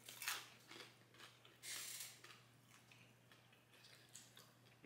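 A person biting into a crisp-skinned fried chicken wing, a crunch about a third of a second in, then faint chewing with a few small crunches.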